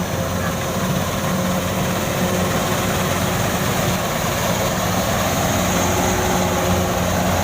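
Kubota DC93 rice combine harvester running steadily while cutting rice, its diesel engine giving a continuous low hum.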